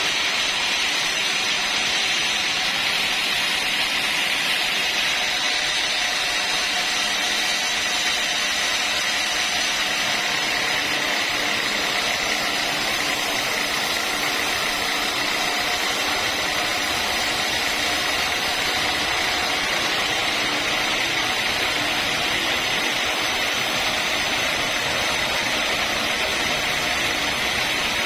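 Sawmill saw running steadily through a long lengthwise cut in a log: a continuous, unchanging hiss of machine and blade.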